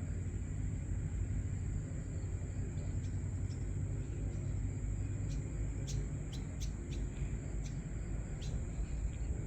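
Open-air morning ambience: a steady low rumble with a constant high thin tone over it, and a quick run of short bird chips from about five to nine seconds in.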